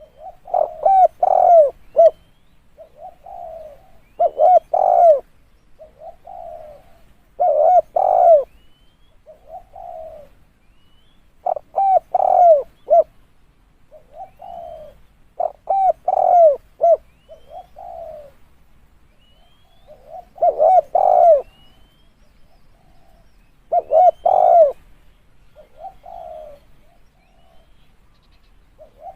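Spotted dove cooing in a steady repeated phrase, about once every four seconds. Each phrase is a soft coo followed by a louder run of two or three coos. It is the call played to lure doves in.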